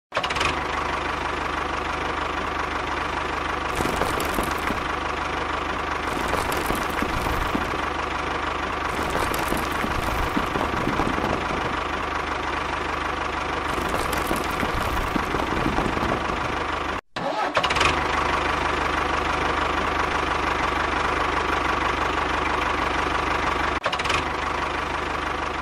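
Small motor of a homemade miniature tractor running steadily with a constant whine. Several short scraping flares come over it, and the sound drops out for a moment about two-thirds of the way through.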